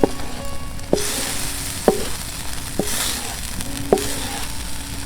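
Sausages, onions and peppers in sauce sizzling in a Muurikka pan, stirred with a utensil that knocks against the pan with a short ring about once a second.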